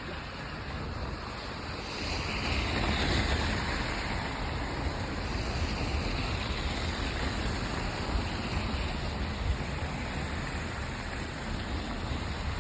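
Steady rushing outdoor street noise, wind and passing traffic on a snowy street, swelling louder about two seconds in.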